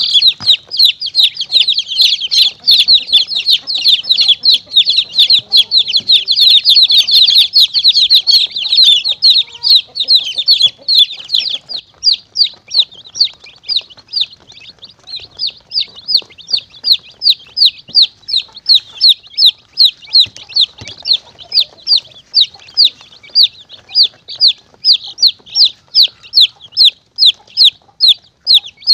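Chicks peeping: many overlapping high-pitched peeps at first, thinning after about twelve seconds to single peeps at a steady pace of roughly two to three a second.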